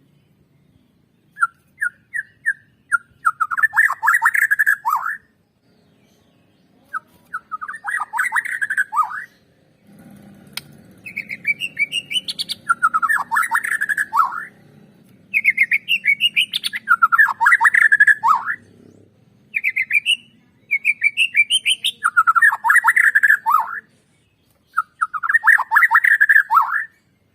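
White-rumped shama (Bornean murai batu) singing loud, repeated phrases a few seconds apart, seven in all, each a quick run of rising notes followed by a fast, rattling burst. A faint low hum sits underneath from about ten seconds in to past halfway.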